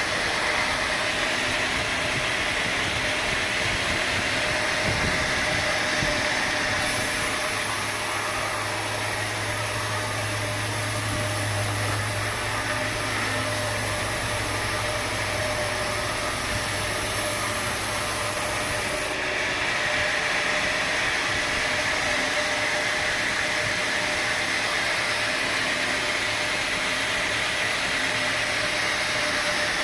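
Sawmill machinery running steadily, a saw working through oak timber. For about twelve seconds in the middle a deeper hum and a higher hiss join the noise, as the saw takes a cut under load.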